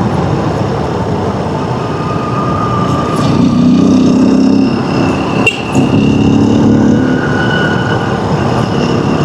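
Single-cylinder engine of a light Honda dirt bike running under way on a rough dirt road, its note swelling louder twice, with one sharp knock about five and a half seconds in.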